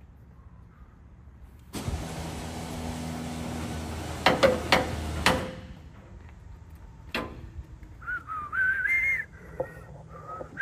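Electric winch motor running for about three and a half seconds, a steady hum with a hiss, ending with a few sharp metallic clanks as it pulls the race car up. A short wavering whistle comes later.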